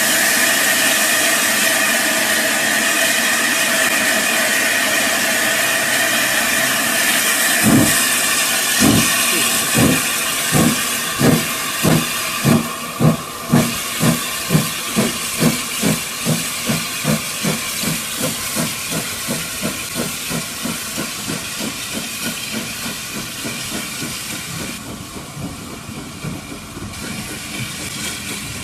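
Steam locomotive hissing steam, then starting away. About eight seconds in, exhaust chuffs begin, slow at first and quickening steadily, and they grow fainter toward the end.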